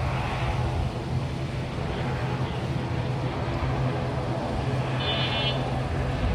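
Steady engine rumble with a low hum, and a brief high chirp about five seconds in.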